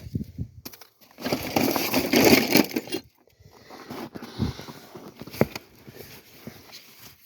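Snow being knocked and scooped out of a tool bag: a crunching, rustling burst for about two seconds, then scattered knocks and clicks as the bag and its contents are handled.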